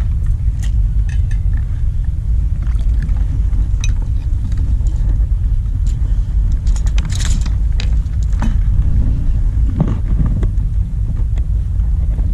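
Steady low rumble of wind buffeting the microphone, with scattered light clicks and rattles of fishing tackle being handled, busiest about seven seconds in.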